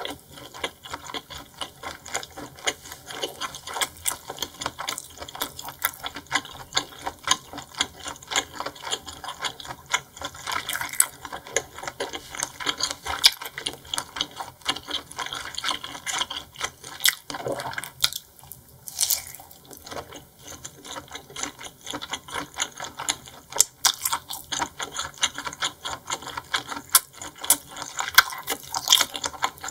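Close-miked chewing of seafood: a dense run of wet clicks and smacks from the mouth, with a short pause about two-thirds of the way through.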